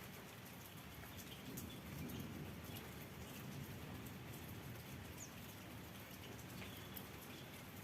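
Faint, steady patter of light rain with scattered drops ticking, and a few brief bird chirps.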